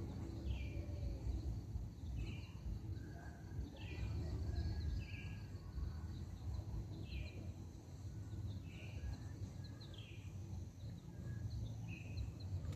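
A bird calling over and over, a short high note repeated roughly once a second, over a steady low outdoor rumble.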